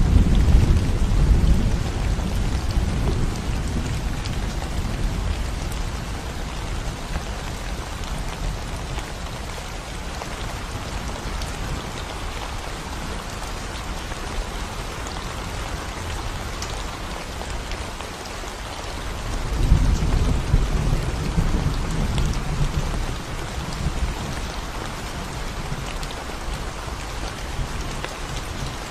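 Steady rain falling on a concrete road and the plants around it. Low rumbles of thunder are heard at the start, dying away over the first few seconds, and again about two thirds of the way through.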